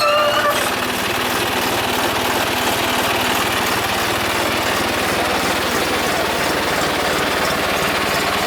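Tractor's diesel engine running steadily, powering the loader.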